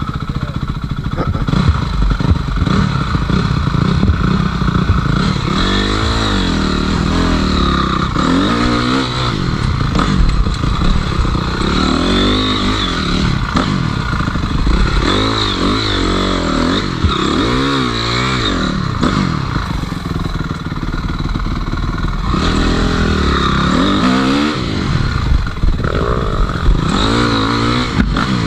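Enduro dirt bike engine running hard, revving up and dropping back again and again every few seconds as the throttle is worked.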